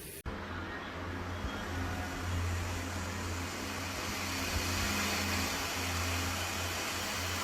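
A steady low mechanical hum with a hiss over it, like a running vehicle engine, starting abruptly about a quarter second in.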